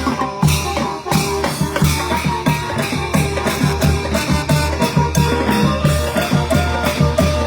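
Thai brass band (trae wong) playing lively procession music: horns carry the tune over a steady, driving drum and percussion beat. The low drums drop out briefly just after the start.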